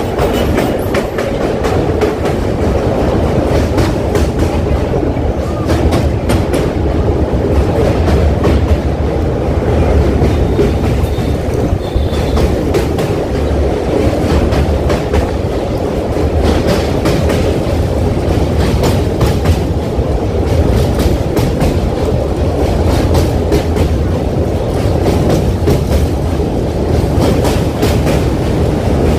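Passenger train running over a steel truss bridge: a continuous loud rumble of wheels on rails, with frequent sharp clicks of the wheels over rail joints.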